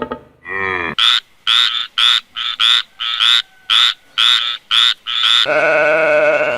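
Frog croaking: a quick series of short, sharp croaks, many in close pairs, lasting about four seconds. A drawn-out wavering animal call follows near the end.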